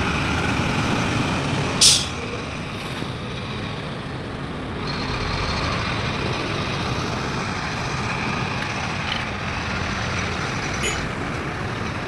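Heavy diesel engine running steadily, with a short sharp hiss about two seconds in.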